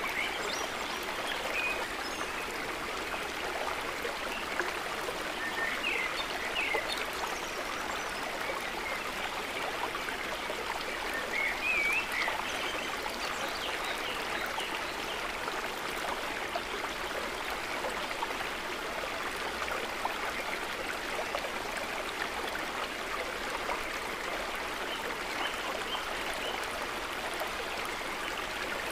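Small water trickle running steadily, a continuous gentle burbling, with a few short high-pitched notes in the first half.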